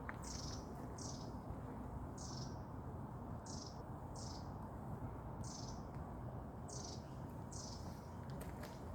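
A bird giving short, high, slightly falling chirps, one about every second, over steady low background noise.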